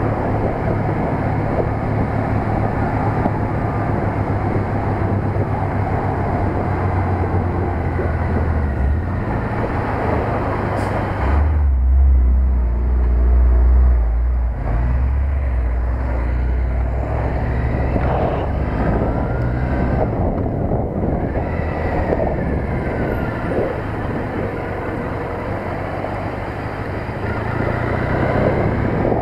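Triumph Bonneville T100's parallel-twin engine running on the move, with wind noise on the microphone. Around the middle the wind drops away and a louder deep drone dominates for a few seconds, as the bike slows beside a dump truck, before riding on.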